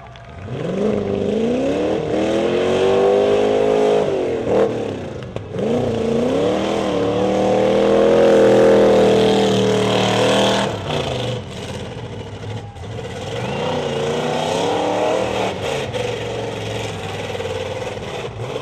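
4x4 truck engine revving hard on an off-road race course, the pitch climbing and dipping with the throttle. It dips briefly around four seconds in, climbs again and holds high, then drops off about ten seconds in to a lower, wavering run.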